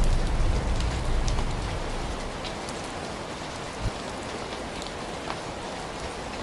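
Steady rainfall, an even hiss with scattered drop ticks, with a low thunder rumble dying away over the first two seconds. A single soft low thump about four seconds in.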